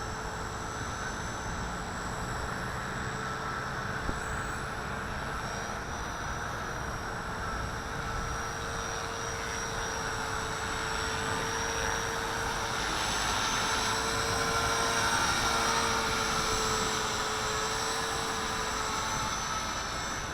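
Walkera V450D01 electric RC helicopter hovering: a steady whine from its rotor and motor that wavers slightly in pitch as it holds against the gusts, with wind rumbling on the microphone. It grows a little louder a bit past the middle.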